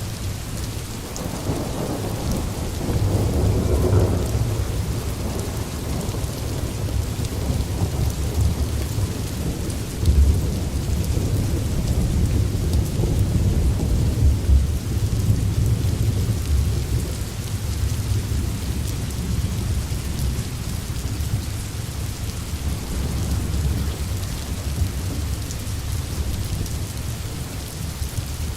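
Steady rain pattering on a tin roof, with rolling thunder. A long rumble builds to a peak about four seconds in, and a second stretch of rumbling comes about ten to fifteen seconds in.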